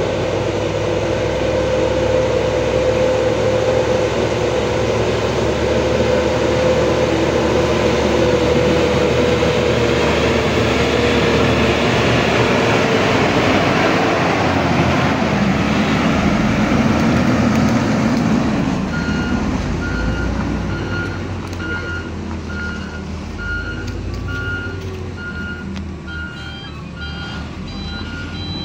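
Heavy truck's diesel engine running loudly with a steady whine, easing off after about eighteen seconds; then a reversing alarm starts beeping about every 0.7 seconds as the truck backs up.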